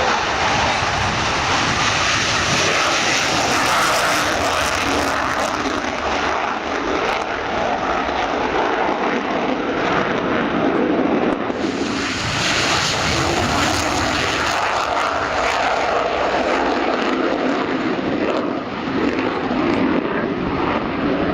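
Panavia Tornado jets' Rolls-Royce RB199 turbofans flying past in a loud, continuous rushing noise that swells twice, about four seconds in and again about twelve seconds in, as the aircraft pass.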